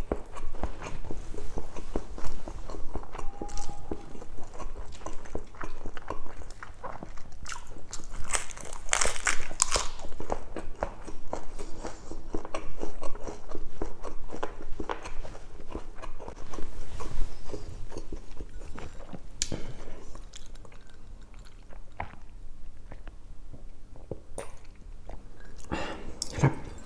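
Close-miked eating: wet chewing and lip-smacking on pork belly adobo in coconut sauce, with irregular bites and clicks and a burst of sharper crunchy sounds about a third of the way in.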